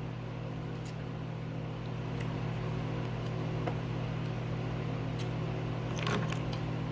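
Steady low hum of a running appliance or fan, with a few faint clicks and a short burst of small clicks and rustling about six seconds in, as from eating and handling food.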